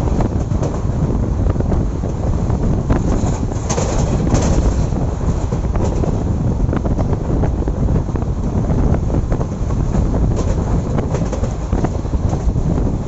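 Passenger train running at speed: a steady rumble of coach wheels on the rails with scattered clicks and rattles, and wind buffeting the microphone, strongest about four seconds in.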